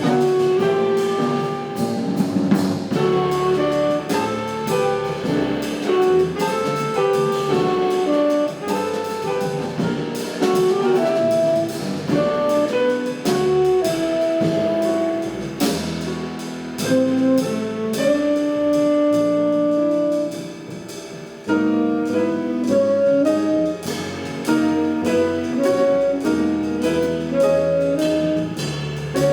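Live jazz quartet playing a fast, busy passage: saxophone lead over piano, double bass and drums. About two-thirds through, a long held note and a brief drop in level before the quick lines resume.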